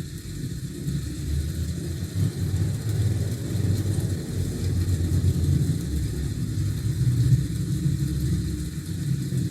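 A steady low rumble with no clear pitch or rhythm, swelling slightly in loudness partway through.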